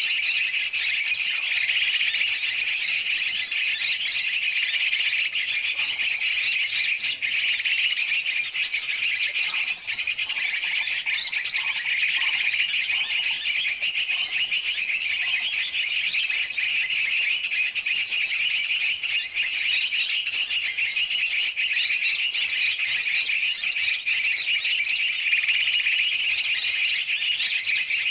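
A dense, continuous chorus of many small birds chirping and chattering at once, high-pitched with rapid repeated trills and no pause: a bird-lure (pikat) recording of mixed big and small birds' noisy calls, used to draw in bulbuls.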